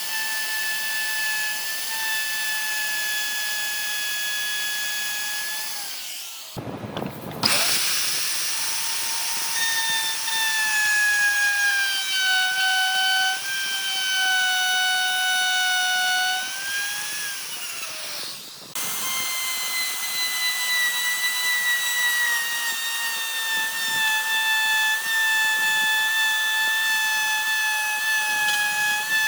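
An electric power tool's motor whining at a steady high pitch as it works wood. The pitch sags and recovers with the load, and the sound breaks off twice before starting again.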